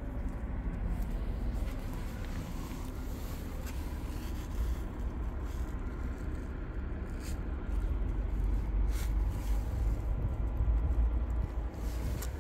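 Diesel engine of a MAN 32.414 concrete pump truck running with a steady low rumble, a little louder in the second half.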